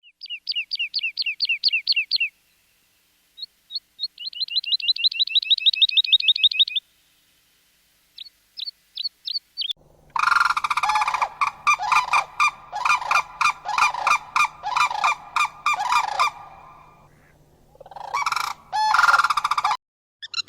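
Wild birds calling, from two different recordings in turn. First come high, rapid series of short notes that fall in pitch, run together into a fast trill. From about ten seconds in come lower repeated calls, about two a second, over a faint steady hum.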